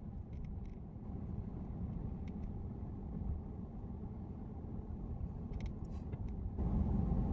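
Low steady rumble of a moving car, with a few faint clicks; it gets louder about six and a half seconds in.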